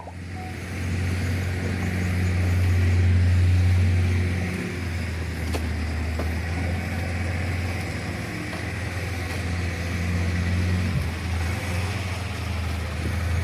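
Diesel engine of a loaded Canter dump truck running steadily, its note swelling a little in the first few seconds and then settling.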